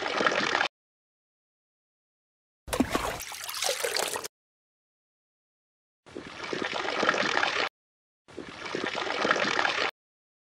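Water poured from a small metal cup onto sand in four separate short pours of about a second and a half each, with dead silence between them. The second pour, about three seconds in, starts with a sharper splash.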